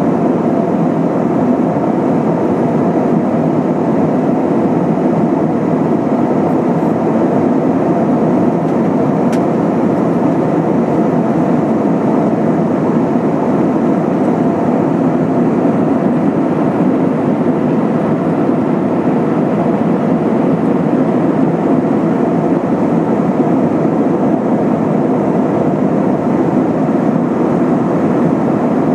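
Steady cabin noise of an Airbus A320-232 in flight: the even rush of its IAE V2500 turbofan engines and airflow, heard from inside the passenger cabin.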